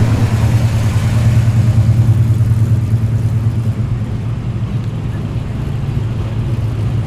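Holden VK Commodore's engine running as the car drives past, a deep low note that is loudest for the first three seconds or so and then fades as it moves away.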